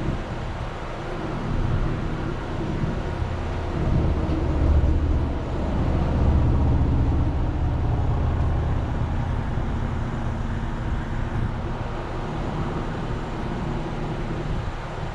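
Car engine running with low road and cabin noise, heard from inside the car; it grows louder for a few seconds from about a second and a half in, then settles back to a steady hum.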